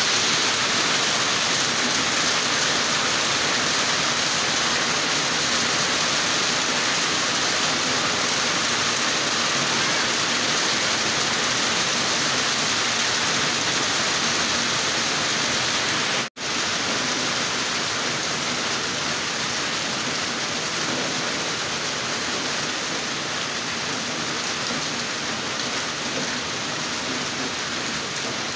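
Heavy rain pouring steadily onto foliage and a ledge, a dense even hiss. The sound drops out for an instant about halfway through.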